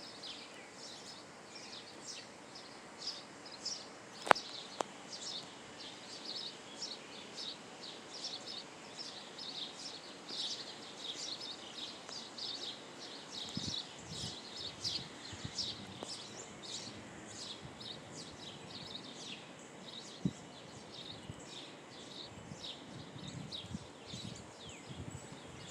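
Birds chirping and calling over a faint outdoor background, many short high calls overlapping throughout. A single sharp click about four seconds in stands out as the loudest sound.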